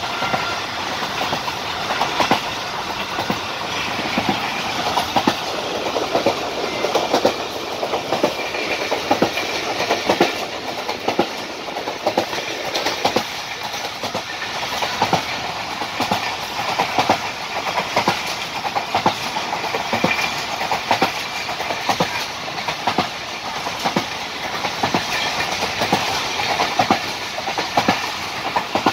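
Khyber Mail passenger train running, heard from aboard: a steady rumble of the carriages with many sharp clickety-clack knocks as the wheels pass over the rail joints.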